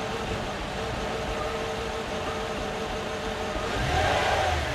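A Mercedes CLK55 AMG's 5.4-litre V8 idling steadily, then swelling briefly in a short rev about four seconds in.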